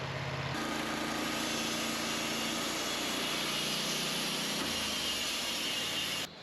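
Portable band sawmill's engine running at higher speed with the blade turning, after a throttle-up about half a second in. The sound cuts off abruptly near the end.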